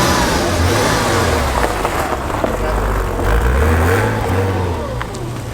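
A car running close by, loud, with a heavy uneven rumble; it cuts off suddenly near the end.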